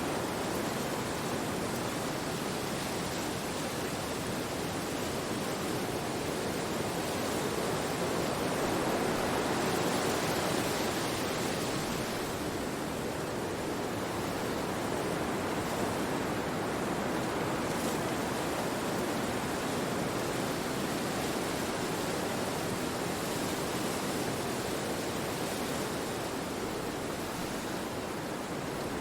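Wind rushing through forest trees: a steady, even hiss that swells gently about ten seconds in and then eases back.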